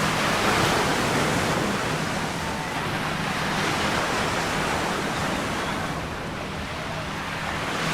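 Ocean surf breaking and washing up the beach, a steady rushing noise that eases a little about six seconds in.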